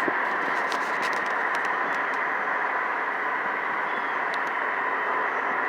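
Steady rushing noise with a faint steady hum, a few light clicks in the first two seconds and a couple of brief faint high chirps.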